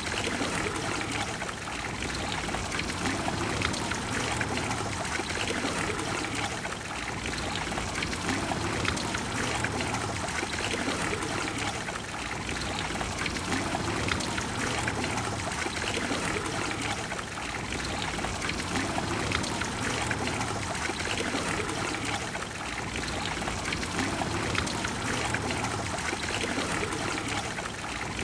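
Trevi Fountain's water cascading and splashing into its basin, a steady rushing splash.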